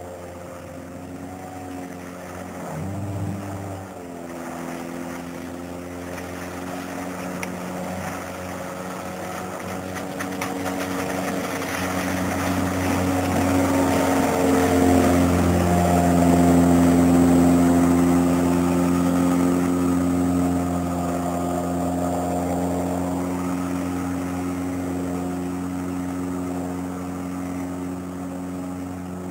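Outboard motor of an inflatable boat running, its pitch shifting a few times; it grows louder from about ten seconds in, is loudest around seventeen seconds, then eases off a little.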